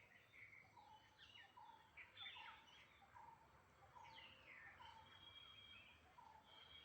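Faint birdsong from more than one bird: a steady series of short, low notes about two a second, with higher chirps and whistles over it.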